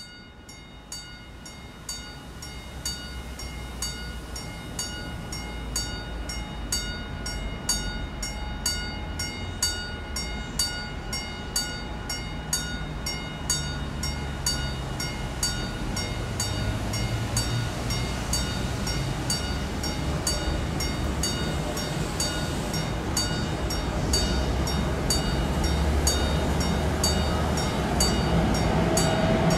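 HŽ class 1141 electric locomotive approaching with its train, the rumble growing steadily louder. Over it a level-crossing warning bell rings with regular, quick strikes.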